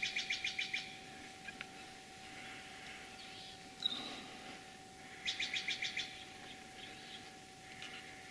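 Bird calls: a quick series of short, high chirps, then a single chirp about four seconds in, then another quick chirping series about five seconds in.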